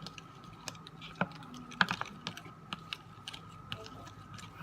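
A stirring stick tapping and scraping against a small container as thick slime glue is stirred, making irregular light clicks.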